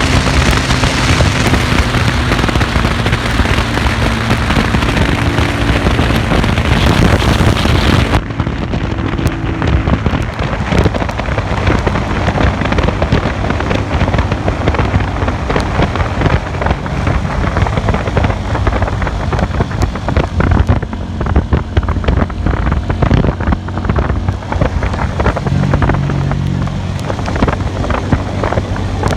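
Classic Earl 150 cafe racer motorcycle engine running on the move, buried in loud wind noise on the microphone with crackling. About eight seconds in, the high hiss drops suddenly.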